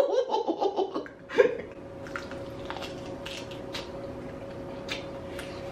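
A voice laughing and trailing off in the first second, then close-miked chewing of a saucy fried chicken wing: soft wet mouth clicks and smacks over a faint steady hum.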